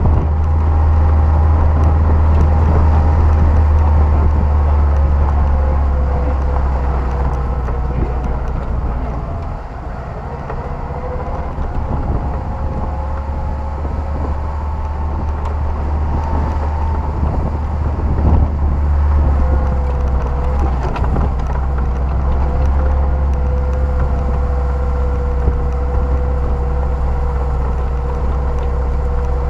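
Off-road vehicle driving along a rough grass track: a low engine and drivetrain rumble with a steady whine over it. It eases off briefly about ten seconds in, and there is a knock about eighteen seconds in.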